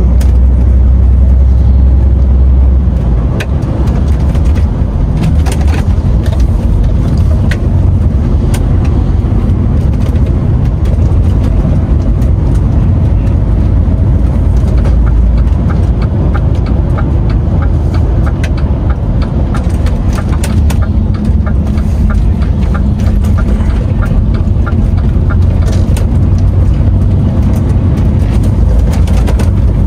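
DAF XF 510 truck's diesel engine running with a steady low rumble, with a run of light, evenly spaced ticks about halfway through.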